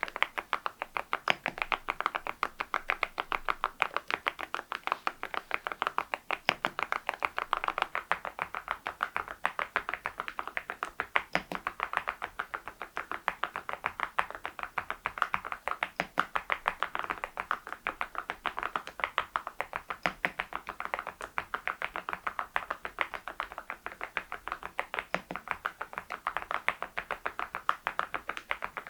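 Continuous fast typing on an Adelie mechanical keyboard fitted with Cerakey ceramic keycaps: a dense, unbroken stream of sharp, clacky keystrokes, many a second.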